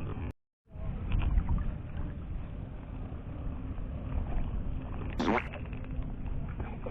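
Steady low rumbling outdoor noise, like wind buffeting the microphone, cut by a short dropout near the start, with a brief hiss about five seconds in.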